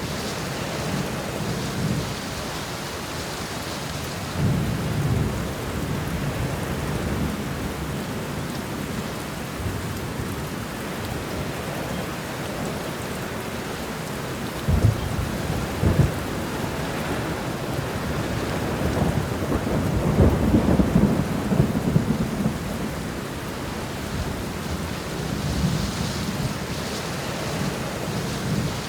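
Thunderstorm: steady heavy rain with thunder rumbling in swells, two sharp cracks about fifteen seconds in, and the longest, loudest rumble rolling a few seconds later.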